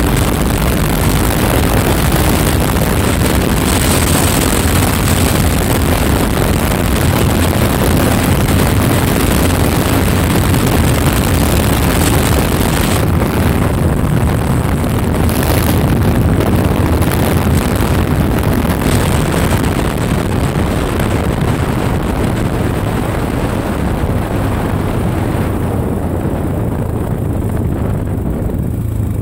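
Honda XR650L's single-cylinder four-stroke engine running steadily while riding, mixed with wind rushing over the microphone. The wind noise drops away over the last few seconds.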